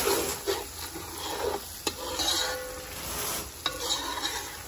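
Spice paste of onion, garlic and masala sizzling in hot oil in a large pot, with irregular scraping strokes of a spoon stirring it.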